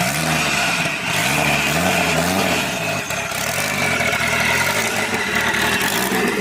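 Car engine revved repeatedly, its pitch climbing and dropping about once a second.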